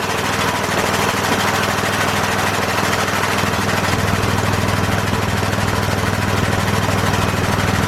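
Piston air compressor running steadily with a fast, even chugging, refilling its tank after the air impact wrench has drawn it down.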